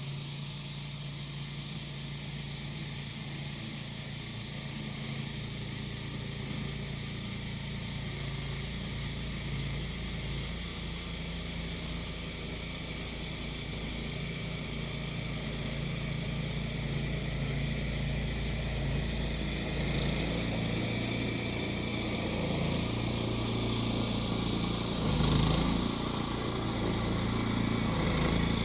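Small engine of a grass-cutting machine running steadily, growing louder over the second half, with a brief swell near the end. Cicadas sing in a steady high buzz above it.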